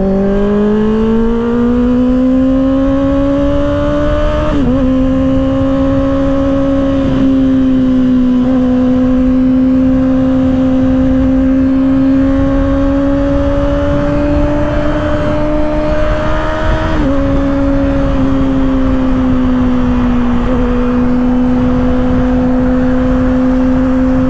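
2024 Kawasaki ZX-6R's inline-four engine breathing through an M4 aftermarket exhaust. Its revs climb over the first few seconds, then hold fairly steady at speed, with a few brief dips in pitch, over steady wind noise.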